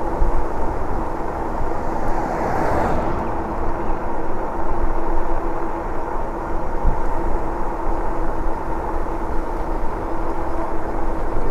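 Wind rumbling on the microphone of a moving Lectric e-bike, with a steady drive hum running underneath and a brief rise of hiss about two seconds in.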